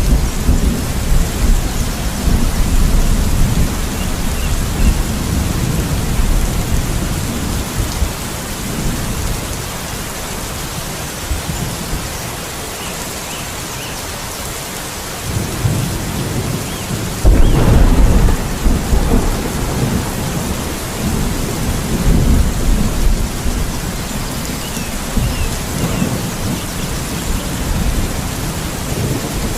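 Steady rain with thunder. Rumbling dies away over the first few seconds; then thunder builds about fifteen seconds in, breaks loudly a couple of seconds later and rumbles on.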